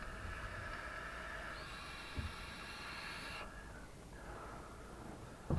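Long drawn breaths of vaping: an airy hiss lasting about three and a half seconds, a short pause, then a second long breath starting about four seconds in. There is a small thump about two seconds in and a sharp click right at the end.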